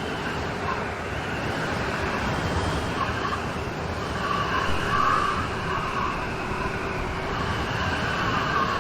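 Steady rain of a rain storm, swelling slightly about halfway through.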